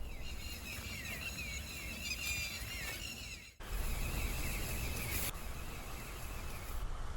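Wild birds calling outdoors: quick, wavering chirps repeated over and over, with a low rumble beneath. The sound drops out briefly about halfway through, then the chirping carries on.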